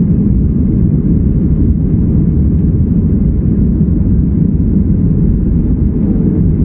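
Airliner's jet engines at full takeoff thrust during the takeoff roll, heard from inside the cabin as a loud, steady low rumble.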